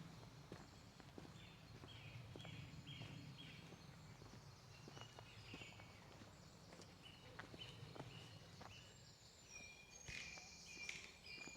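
Faint woodland birdsong: series of short, high chirping notes, with more birds calling together near the end, over soft footsteps on a path.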